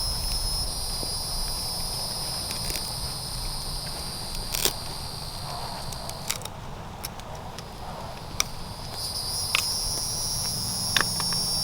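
Steady high chirring of crickets, with a few sharp clicks as a fuel line is cut with a hand cutting tool; the loudest click comes about four and a half seconds in.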